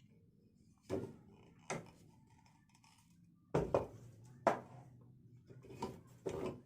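Several sharp knocks and clatters of small hard objects being handled and set down, with a faint steady hum in the second half.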